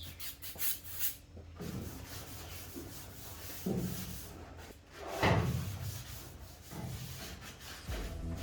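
Rag rubbing and wiping over the plenum chamber's sheet metal, cleaning it with wax and grease remover: a few quick hissy strokes near the start, irregular rubbing after, and a louder stroke about five seconds in. Background music comes in near the end.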